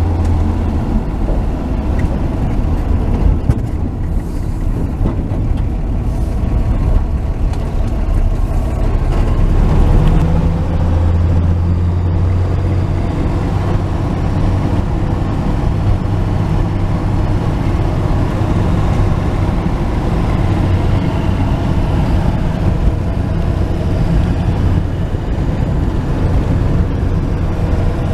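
1949 Chevy truck driving: the engine drones steadily under road noise, growing louder about ten seconds in.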